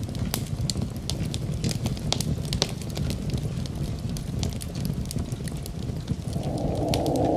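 Wood fire crackling, with scattered sharp pops over a low steady rumble. Near the end a louder rushing noise swells in.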